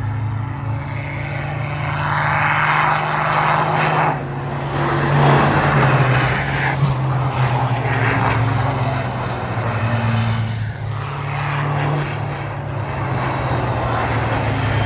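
Heavy racing trucks' turbocharged diesel engines running hard, a low steady drone with surges of louder noise as trucks go by.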